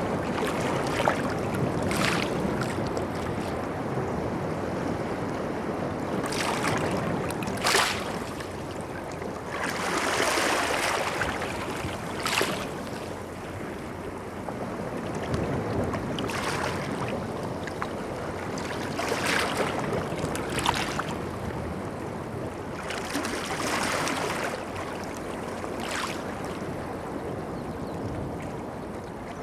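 Ocean surf washing onto a beach: a continuous wash with waves breaking or splashing every few seconds.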